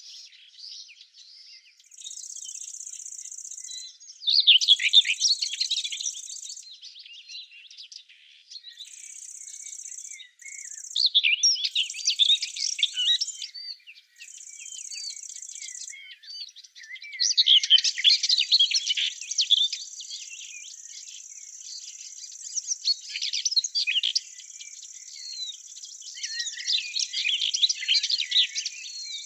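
Several songbirds singing and chirping in quick, overlapping phrases. A high, thin buzzing comes in stretches of a second or two and runs on without a break from about halfway through.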